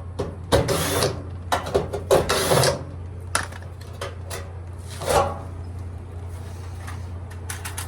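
Tool work on a Whirlpool dryer's heating element assembly: a series of metallic clicks and short scraping, rubbing bursts, over a steady low hum.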